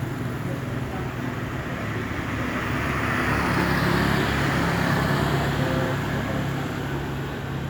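Road traffic: a motor vehicle's engine hum with tyre and road noise that swells to a peak about four seconds in and then fades as the vehicle passes.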